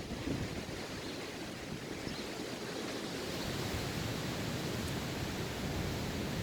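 Wind blowing across the microphone: a steady rushing hiss with an uneven low rumble.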